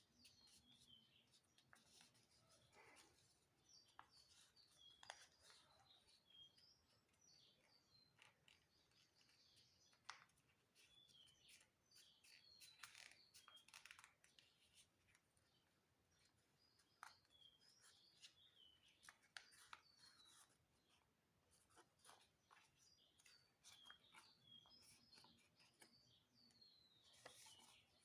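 Faint rustling and creasing of a sheet of paper being folded, in scattered short strokes. Small birds chirp faintly and repeatedly throughout.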